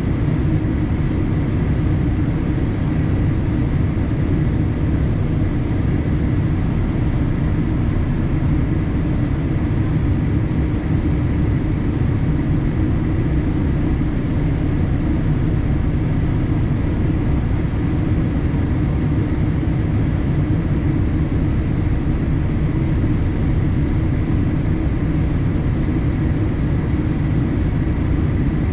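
Steady cabin noise inside a Boeing 787-8 in flight: an even rush of airflow and engine noise, strongest in the low range, with a faint steady high tone and no change in level.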